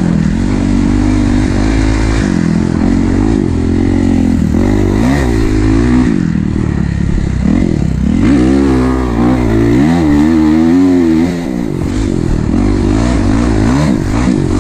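Kawasaki KX450 dirt bike's single-cylinder four-stroke engine being ridden hard, its pitch rising and falling again and again with throttle and gear changes, with a short drop off the throttle about eleven seconds in.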